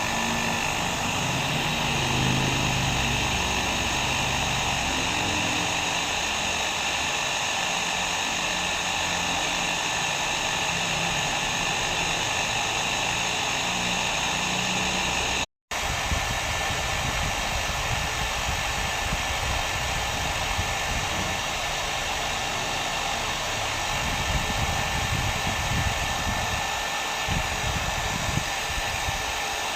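Hair dryer blowing steadily, an even rush of air with a faint whine, used as white noise for a baby's sleep. It cuts out for an instant about halfway through and comes straight back.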